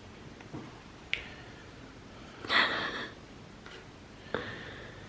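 A small plastic toy and its packaging being handled: a few sharp plastic clicks, and one short, louder crackle about two and a half seconds in.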